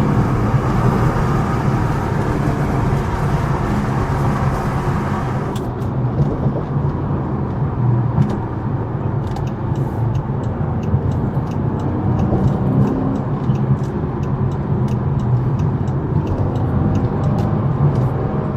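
Chrysler 300's Hemi V8 with a muffler delete, a steady low exhaust drone while the car is driven. A hiss over it drops out suddenly about five seconds in.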